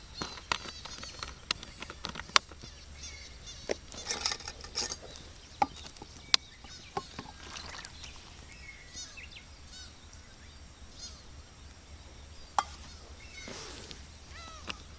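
Wood fire crackling, with scattered sharp pops from burning firewood. Small birds chirp high in the background.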